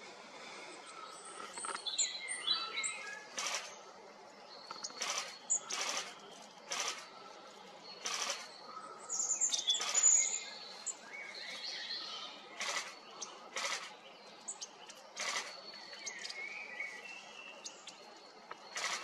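Small songbirds chirping and twittering in short, irregular calls, mixed with a series of short sharp sounds.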